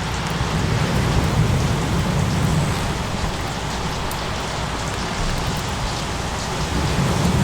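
Steady rain from a rain-and-thunder ambience mix, with a low rumble that swells and eases, and faint scattered crackling ticks over it.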